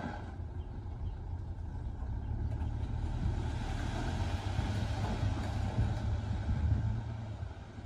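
Heavy diesel earthmoving machine running under load, a steady low rumble that grows louder for a few seconds and eases off near the end.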